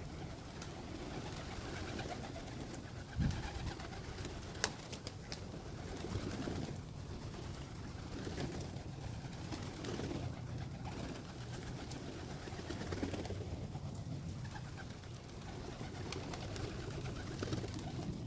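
Birds calling steadily, with a dull thump about three seconds in and a sharp click about a second later.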